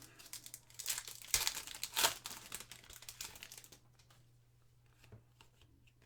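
Plastic foil wrapper of a trading card pack being torn open and crinkled, loudest in the first half, then a few light clicks of the cards being handled.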